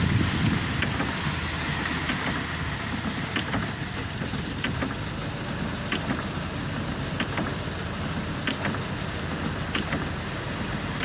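Steady low vehicle rumble in the rain, with irregular light sharp ticks every second or so.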